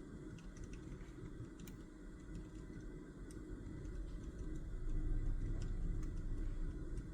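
Scattered light clicks and taps from desk work, such as a pen or calculator keys, over a low rumble that swells about halfway through.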